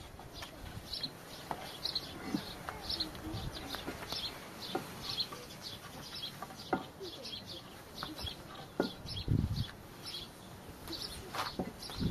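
Birds chirping over and over, short high chirps about two or three a second, with a few scattered light knocks.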